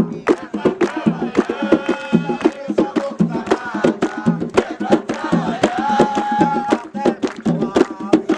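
Drums beating a quick, driving rhythm under voices singing a sacred song for Xangô.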